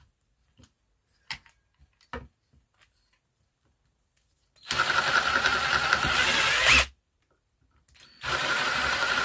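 An electric drill boring out a hole to a larger bit size, in two runs of about two seconds each with a steady whine that rises in pitch just before each run stops. A few light clicks of handling come before the first run.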